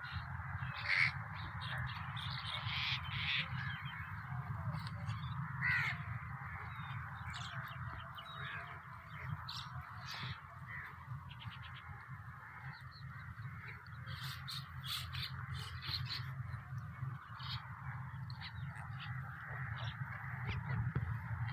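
Crows cawing among a chorus of other birds calling, many short calls over a steady background of chatter, with a steady low hum underneath.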